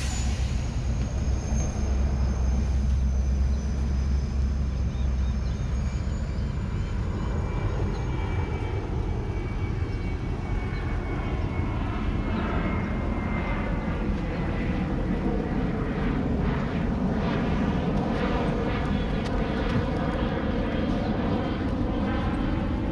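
Propeller airplane engine droning as it passes overhead, its pitch gliding slowly down.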